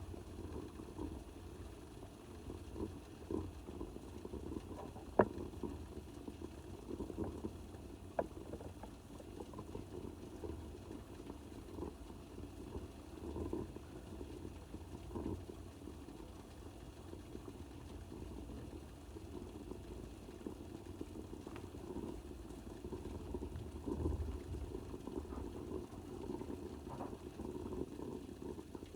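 Small fire in a mini fireplace with water boiling, a steady low bubbling broken by irregular crackles and a few sharp pops.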